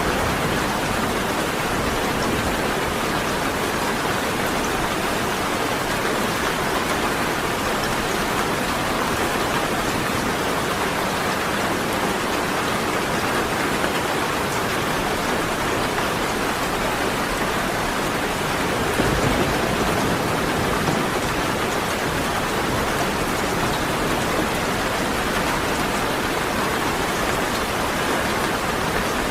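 Steady rain falling in a dense, even hiss, with a brief low rumble about two-thirds of the way through.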